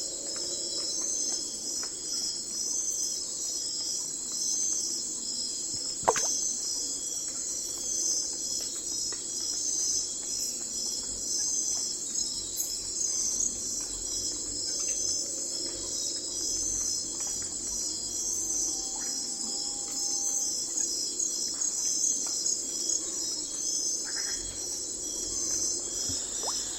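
Night-time chorus of crickets trilling continuously in a dense, pulsing high-pitched band, with a lower steady hum of other night creatures beneath. A single sharp click sounds about six seconds in, and a short call a little past the middle.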